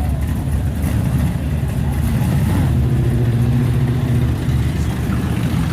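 Car engine rumbling as a car cruises by, a deep low drone that steadies into one clear engine note between about two and four and a half seconds in.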